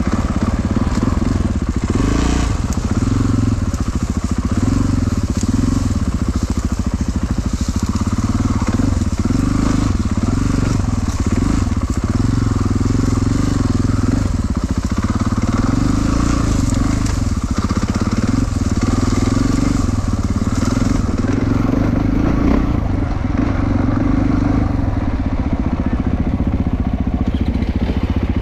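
KTM 450 four-stroke single-cylinder enduro motorcycle engine running under riding load, its pitch rising and falling continually with throttle changes.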